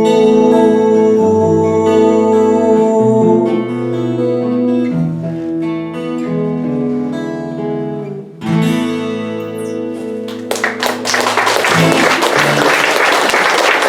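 Acoustic guitar playing the closing chords and ringing notes of a song's outro, with a brief dip about two-thirds through. About three-quarters of the way in, audience applause breaks out and continues to the end.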